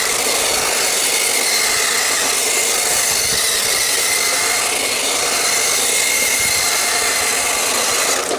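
Electric motor of a radio-controlled drift car whining steadily as it drives, with a strong hiss, its pitch shifting slightly with throttle. The sound cuts off suddenly near the end.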